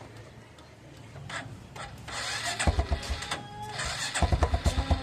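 Motorcycle electric starter whirring, then the small single-cylinder engine catching and running with a rapid low pulsing exhaust beat. The beat dips briefly, then picks up again louder near the end. The exhaust is fitted with a used drink can as a makeshift racing silencer.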